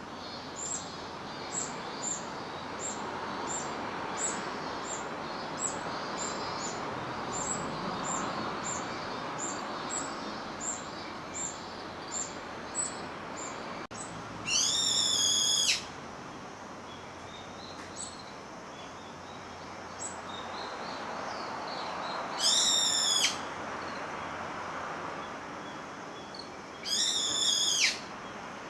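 Brown-eared bulbuls calling: a string of short, thin, high calls about twice a second, then three loud, drawn-out calls, each lasting about a second and a half.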